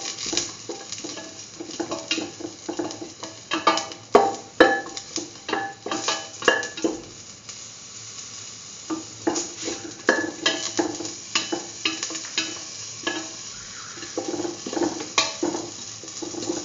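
Cumin seeds, garlic cloves and ginger sizzling as they fry in a little oil in a stainless steel pan. A spatula stirs and scrapes them across the metal in quick strokes, with a short lull about halfway through.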